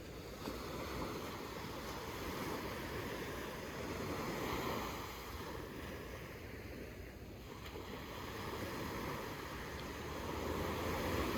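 Sea surf breaking on a sandy beach, a steady wash of waves that swells and eases, loudest about four seconds in and again near the end.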